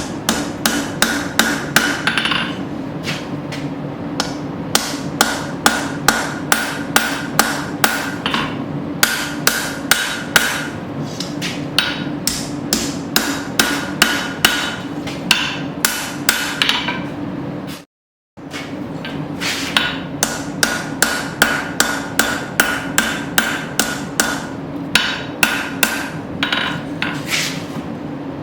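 Hand hammer blows on hot steel over an anvil, about two or three a second in runs broken by short pauses, with the anvil ringing. An old file's tang is being forged up into a fire-strike handle.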